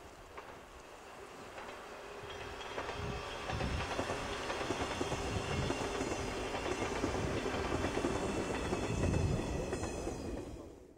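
Electric local train passing close by, growing louder as it approaches and then fading as it goes away near the end. Its wheels clatter rhythmically over the rail joints.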